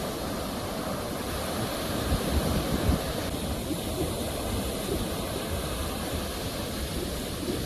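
Sea waves washing on the shore: a steady rushing with a louder surge about two to three seconds in.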